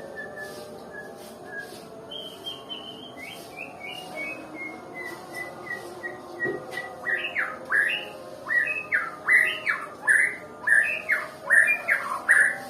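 White-rumped shama (murai batu, Nias type) singing: a run of soft, short whistled notes stepping down in pitch, then from about seven seconds louder, quick swooping whistles.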